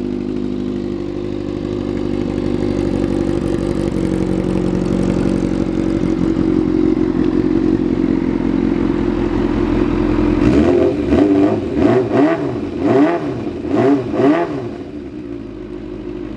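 Kawasaki ZRX400 inline four-cylinder engine idling steadily through an RPM aftermarket exhaust. About ten seconds in it is revved in about five quick throttle blips, each rising and falling in pitch, before it settles back to idle near the end.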